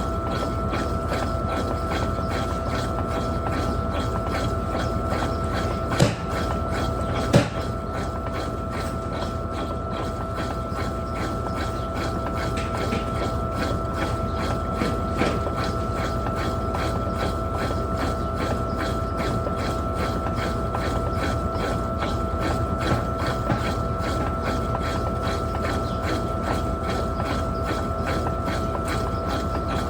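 Electrolux Turbo Capacidade Premium 15 kg top-loading washing machine running mid-cycle: a steady motor whine over a fast, even rhythmic pulsing, with two sharp knocks about six and seven seconds in.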